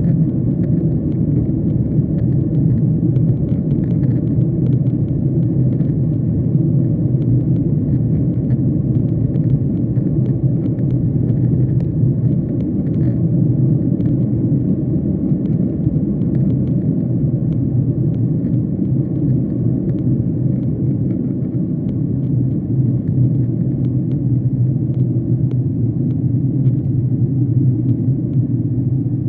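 Airliner cabin noise in flight: the steady, low rumble of the jet engines and air rushing past the fuselage.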